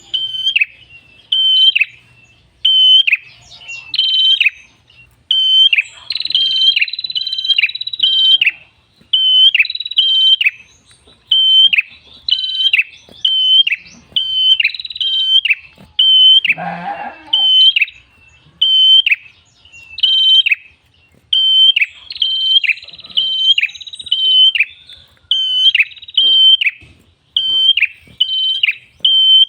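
Red-headed prenjak singing: rapid, sharp, high chirps repeated about twice a second in loud runs. About halfway through, a lower, rougher call briefly breaks in.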